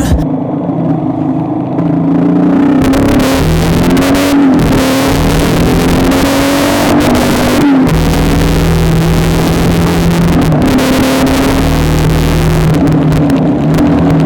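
A vehicle engine running while under way, its pitch holding and then stepping up and down several times, with a steady hiss over it.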